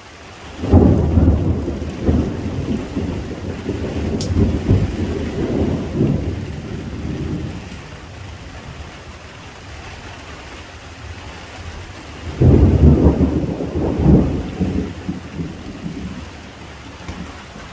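Thunder rumbling twice, for several seconds each time, over steady heavy rain. The second rumble comes about 12 seconds in.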